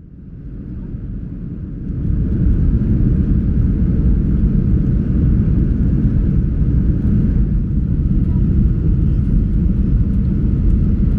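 Boeing 737-800 airliner on its landing run: a loud, steady low rumble of engine and airflow noise that swells over the first two seconds and then holds.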